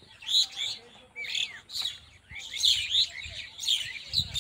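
Small birds chirping: short, high calls in quick clusters, several a second, with brief pauses between clusters.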